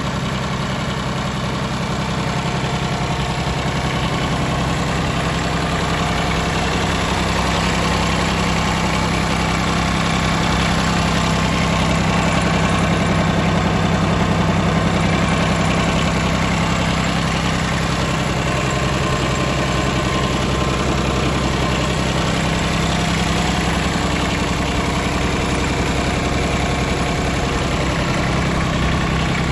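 Mitsubishi MTX13D mini tractor's small three-cylinder water-cooled diesel engine running steadily at idle.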